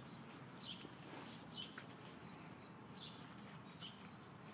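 A small bird chirping faintly and repeatedly: short, high, downward-sliding chirps about once or twice a second over quiet outdoor background noise.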